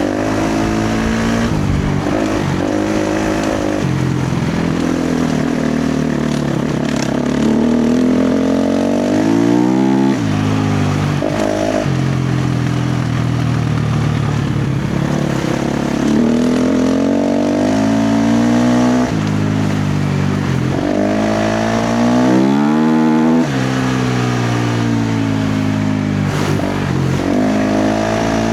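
KTM 350 XC-F dirt bike's single-cylinder four-stroke engine revving hard under heavy throttle, its pitch rising and falling over and over, twice climbing high and then cutting off sharply.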